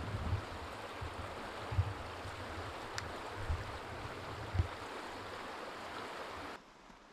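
Meltwater stream rushing steadily, with occasional low thumps. The rush drops away suddenly near the end.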